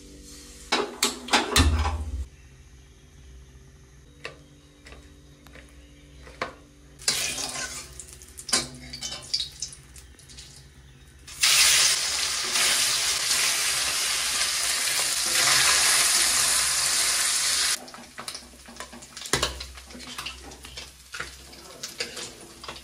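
A steel kadhai clanks onto a gas stove and utensils clink. About eleven seconds in, slices of coconut malai hit hot oil in the kadhai and sizzle loudly for about six seconds, with a metal spoon scraping and clinking around it.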